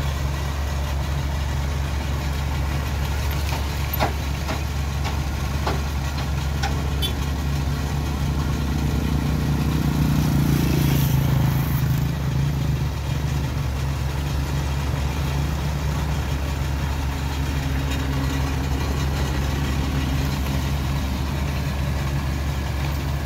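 Truck engine running steadily at a low idle, getting louder for a few seconds about ten seconds in before settling back, with a couple of sharp knocks early on.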